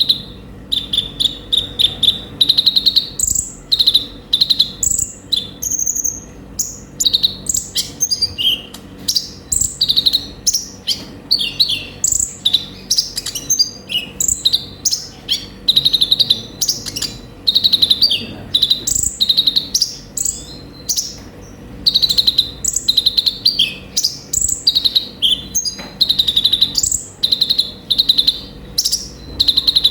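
Kolibri ninja (konin) sunbird singing: fast, high strings of chirps and trills in short bursts, one after another with brief gaps.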